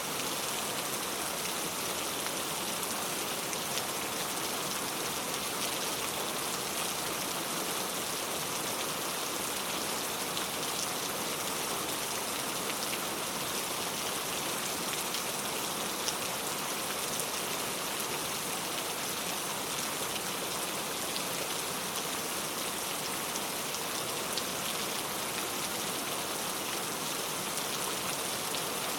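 Heavy rain falling steadily, a dense even hiss with fine patter of drops on surfaces.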